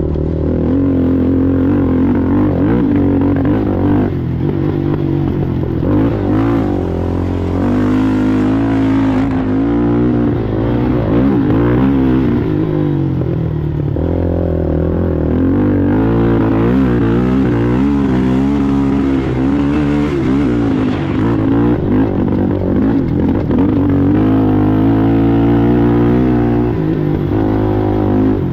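Racing ATV engine being ridden hard, its pitch rising and falling again and again as the throttle is worked and eased.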